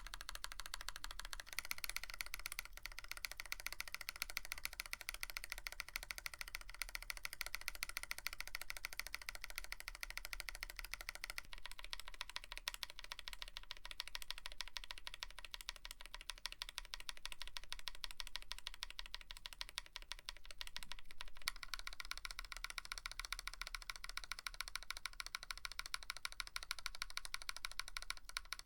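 Fast continuous typing on a Tofu65 mechanical keyboard with a brass plate and PBT keycaps: a dense patter of keystrokes. About twenty seconds in, the typing stops briefly and resumes with a brighter, higher sound as a different set of switches is tested.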